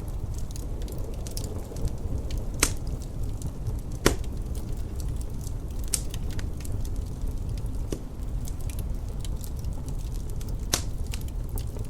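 A wood fire crackling, with irregular sharp pops and snaps, a few louder ones scattered through, over a low steady rumble of wind.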